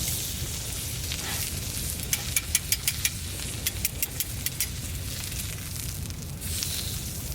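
Wood fire crackling, with a quick run of sharp pops between about two and four and a half seconds in, over a steady low rumble.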